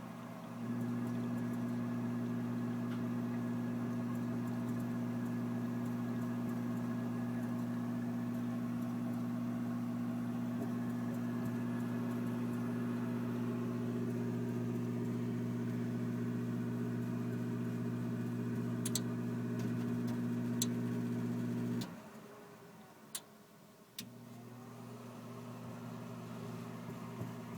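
Furnace running with a steady mechanical hum that starts just under a second in and cuts off suddenly about 22 seconds in, followed by two sharp clicks and a slowly building quieter sound: the furnace starting and shutting down on a short cycle.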